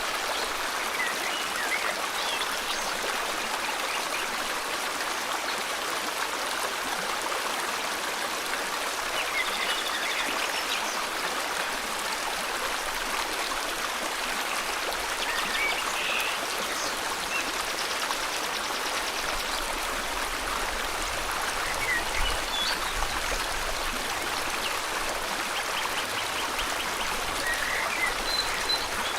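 Steady rushing of a flowing river, with scattered short bird chirps and a few quick trills over it.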